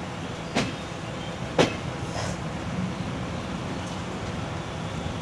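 Passenger train running along the track, heard from beside the coach: a steady rumble with two sharp clacks about a second apart near the start.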